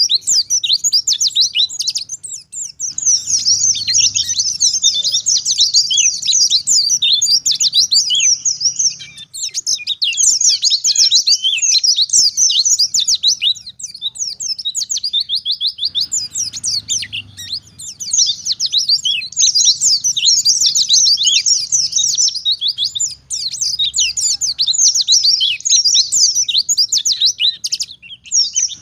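White-eye (pleci) singing in fast, unbroken strings of high chirps and trills, with a few short pauses.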